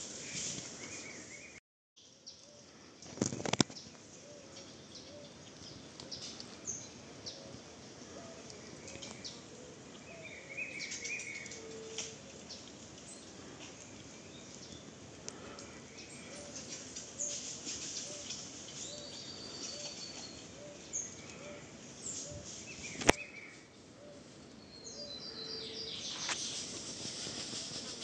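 Woodland ambience: scattered short bird chirps and calls over a steady insect hiss, with a low short call repeating about once a second. There are a few sharp clicks a few seconds in and one sharp click past the three-quarter mark.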